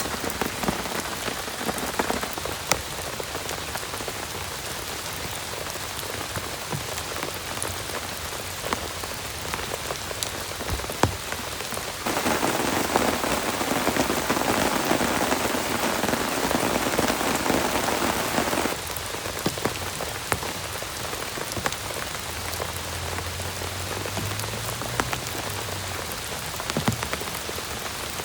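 Heavy rain drumming on a plastic tarp: a steady hiss of rain with many sharp single drop hits. About twelve seconds in it turns abruptly louder for some six seconds, then drops back just as suddenly.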